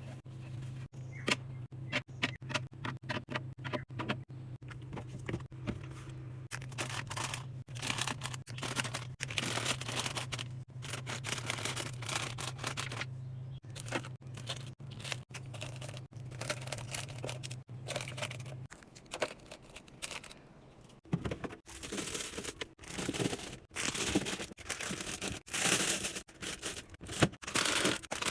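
Food packaging being handled while a fridge is restocked: plastic crinkling and tearing, with many quick clicks and knocks of containers and items being set down. A steady low hum runs under it and stops about two-thirds of the way through.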